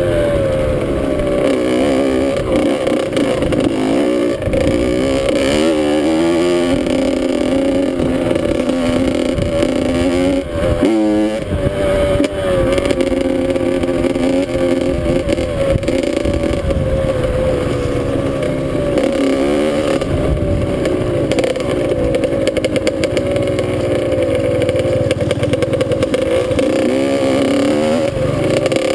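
Dirt bike engine running hard under throttle while riding, its pitch rising and falling as the rider works the throttle and gears, with a quick rev wobble about eleven seconds in.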